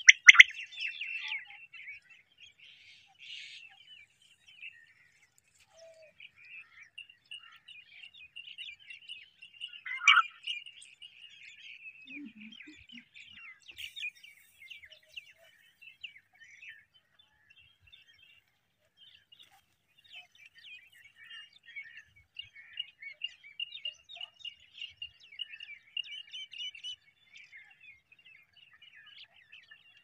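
Birds chirping and twittering, many short chirps close together, with one louder call about ten seconds in.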